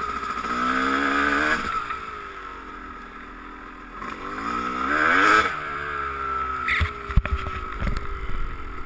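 Dirt bike engine revving up twice with a quieter stretch in between as the throttle is eased off, then running more steadily. Several sharp knocks come in the last couple of seconds.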